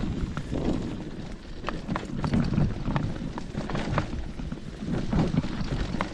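A hiker's footsteps and rustling on a forest trail, with irregular sharp clicks and crunches, and wind buffeting the microphone in uneven low gusts.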